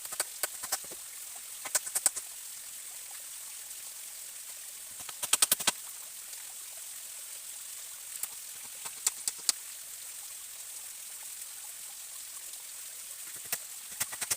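Forest stream running with a steady hiss, broken by short clusters of sharp clicks and knocks, the busiest a quick run about five seconds in.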